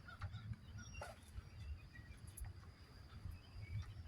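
Faint outdoor animal calls: scattered short chirps over a steady thin high tone and a low uneven rumble.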